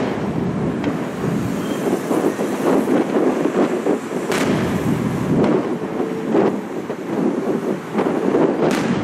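Aerial firework shells bursting overhead with several booms, the loudest about four and a half seconds in and again near the end, over a steady background rumble.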